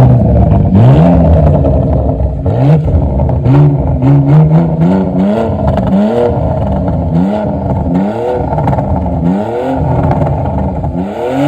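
Porsche engine with a muffler-deleted exhaust, revving up and dropping back again and again, with sharp exhaust pops and crackles between the revs. The raspy, unsilenced note comes from the removed muffler.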